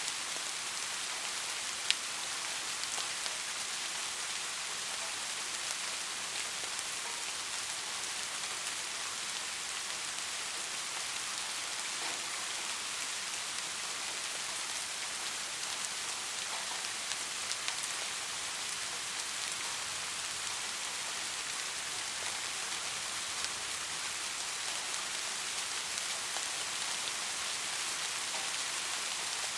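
Steady rain falling, an even hiss with scattered drop ticks, and one sharper drop tap about two seconds in.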